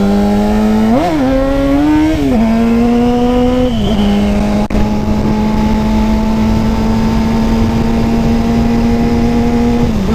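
Motorcycle engine running under way, with wind rush on the mic: the revs climb and drop back a few times in the first four seconds, then hold steady while cruising.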